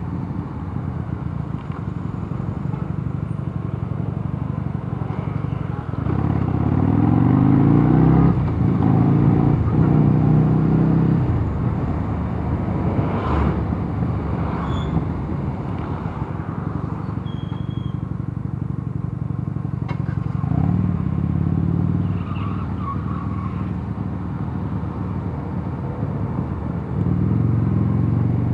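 Mondial Nevada 250 motorcycle engine running under way over steady road and wind noise. The engine note swells louder as the throttle is opened, about six seconds in, around twenty-one seconds, and again near the end.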